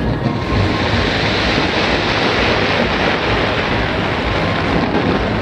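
Fireworks display: a dense, continuous rush of noise that swells about half a second in, over a low rumble.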